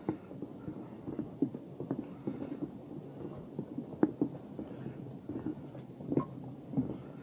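Hikers' footsteps climbing the trail: uneven soft thuds and scuffs with a few sharper knocks, roughly one or two a second.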